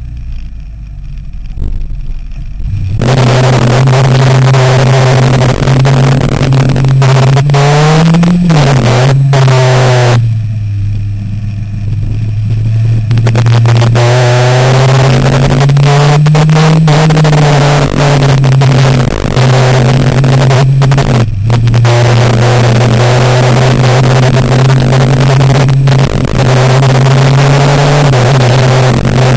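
Sportbike engine pulling hard, its pitch rising and falling with throttle and gear changes, over heavy wind noise. At the start, and again about ten seconds in, the throttle shuts and the engine note drops back for a few seconds before it pulls again.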